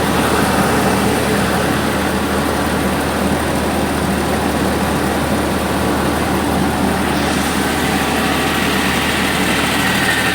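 Tractor-operated mobile rice mill running: the tractor engine's steady drone under the noise of the milling machinery. The higher hiss grows brighter about seven seconds in.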